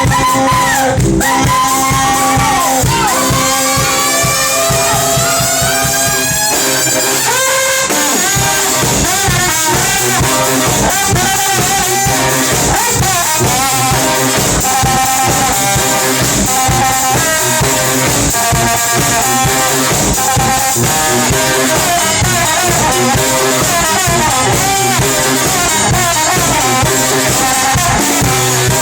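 Brass band playing live, recorded on a phone: horns over a sousaphone and drum kit. A long rising run in the horns climbs from about two to six seconds in, then the band drives on with a steady beat.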